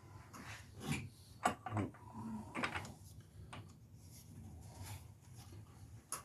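Scattered light clicks and knocks of tools and metal parts being handled during car repair work, about half a dozen over a few seconds, over a low steady hum.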